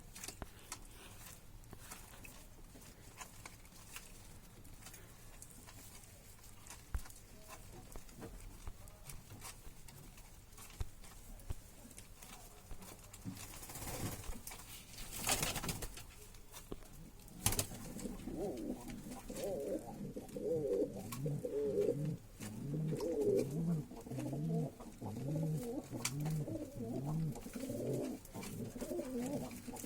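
Pigeon cooing in repeated low phrases, starting a little past halfway and going on steadily. Before that there are faint scattered clicks and a couple of brief swishes.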